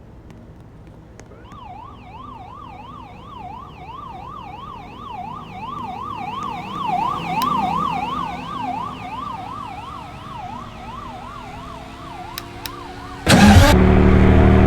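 An emergency-vehicle siren in a fast yelp, sweeping up and down about three times a second, swells and then fades as it goes past. Near the end a car engine suddenly cuts in loud.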